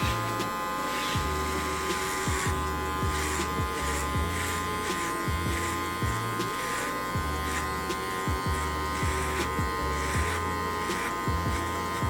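Electric hair clippers buzzing steadily as they cut hair, over background music with a low bass line.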